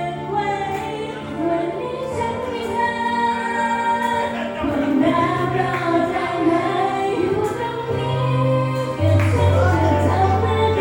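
Live idol-pop performance: female vocals singing over a backing track with sustained bass notes, played loud through the venue's sound system. The music swells about nine seconds in.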